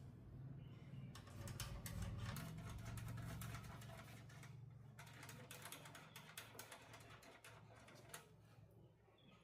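Dense runs of light clicking and tapping in two spells, with a short pause about four and a half seconds in, over a low hum that fades away.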